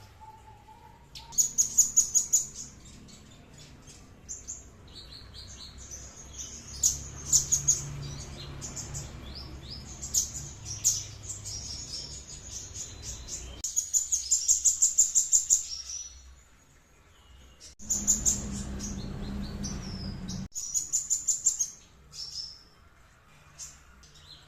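A songbird singing phrases of fast, high, repeated notes and trills, one burst after another. A low background rumble under the song drops out and comes back abruptly a few times.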